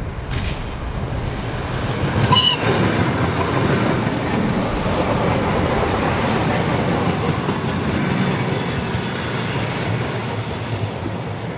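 A train passing close by: steady rushing noise of wheels on the rails, with clatter over the rail joints. About two seconds in, a brief high-pitched ringing squeal is heard.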